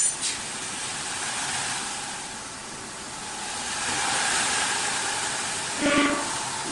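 Automatic CNC wood-turning lathe running, a steady hissing machine noise with a faint hum, swelling a little mid-way. A sharp click at the start and a short pitched squeal about six seconds in.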